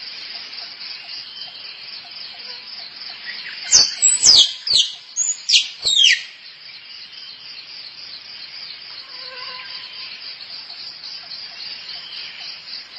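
A squirrel giving a quick run of about six sharp calls about four seconds in, each falling steeply in pitch. Behind it runs a steady, pulsing high trill of insects.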